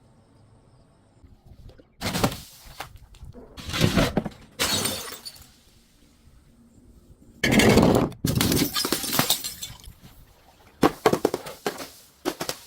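Glass being crushed and broken: a series of about six crunching, crackling bursts, each lasting up to about a second and a half, separated by short pauses.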